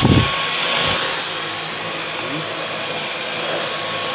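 Dyson V11 Extra cordless stick vacuum running steadily on a thin carpet: a rushing air noise with a steady high whine from the motor. A couple of low bumps come near the start and again about a second in.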